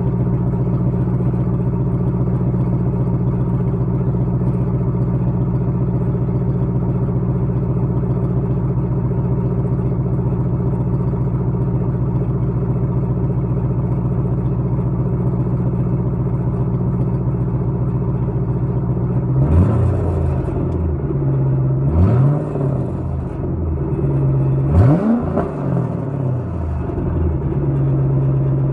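A 2000 Chevrolet Camaro Z28's 5.7-litre LS1 V8 idling steadily through a Flowmaster cat-back exhaust, then revved in three short blips about twenty, twenty-two and twenty-five seconds in, each rising and falling back to idle. The Flowmaster muffler has fallen apart inside, which the owner gives as the cause of a rattle in the exhaust note.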